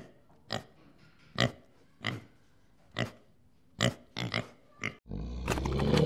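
Pig giving short, separate grunts, about seven in five seconds, with quiet between them. About a second before the end, a louder low rumble and a pitched sound take over.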